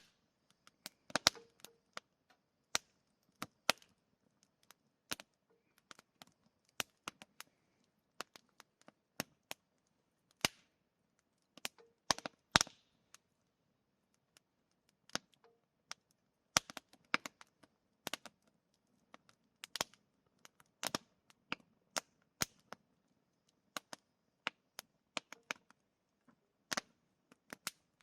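Wood campfire crackling: irregular sharp pops and snaps, a few every second, with an occasional louder crack.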